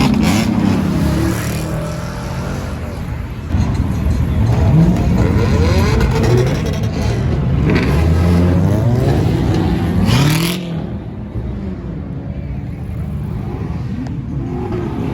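Car engines revving and accelerating hard several times, the engine note sweeping up in pitch again and again before the sound drops off about ten and a half seconds in.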